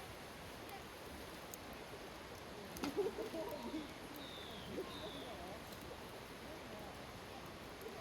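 Wood campfire crackling with scattered small pops and a sharp snap about three seconds in. It is followed by a couple of seconds of wavering mid-pitched tones and two short, high, falling chirps.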